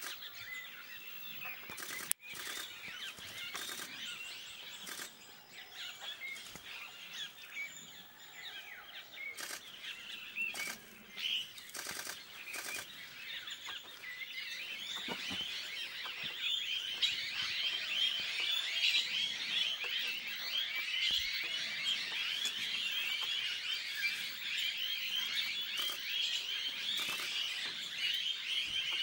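Many small birds chirping and calling at once, a busy chatter that grows denser from about halfway on. A few sharp clicks break in during the first half.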